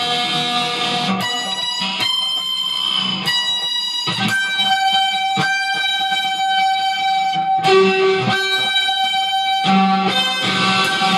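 Electric guitar playing long, ringing single notes, moving to a new note every second or few.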